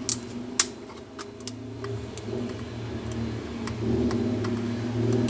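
Scattered sharp clicks and taps from an opened laptop being handled, over a steady low hum that grows louder in the second half.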